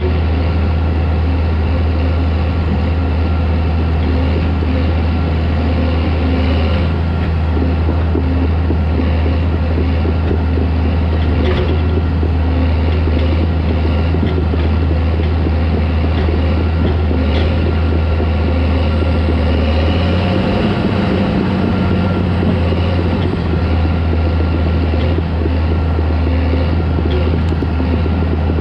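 Caterpillar D4 crawler tractor's diesel engine running steadily, with a deep drone; the engine note shifts briefly about two-thirds of the way through.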